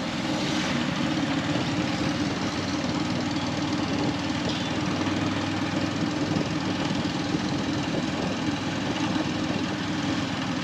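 Motorcycle engine running steadily, with an even rush of road and traffic noise around it.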